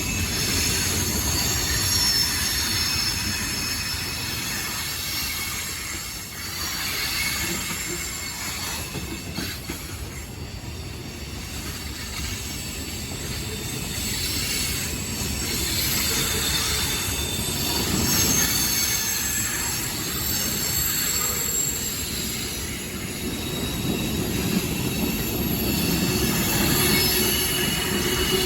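A train's railcars rolling over a low rumble, their steel wheels squealing against the rails in several thin, high-pitched tones that waver and come and go.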